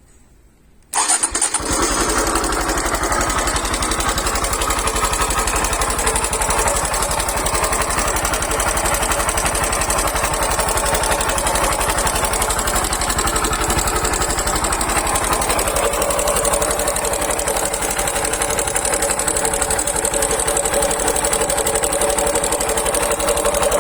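Honda Super Cub C110 (JA16) single-cylinder engine starting about a second in, then idling steadily with a rumbling and clicking noise. The owner suspects the noise comes from the cylinder head and plans to replace the camshaft.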